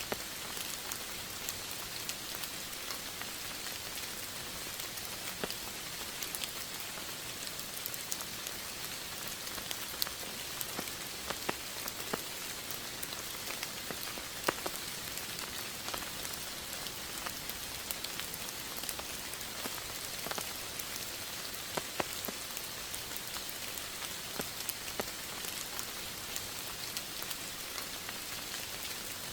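Steady rain falling, an even hiss with many small, irregular drop ticks spattering on a surface.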